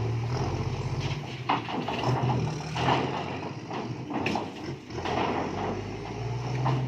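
Isuzu FXZ 360 dump truck's diesel engine running with a loud exhaust, a steady low note with a few short knocks over it.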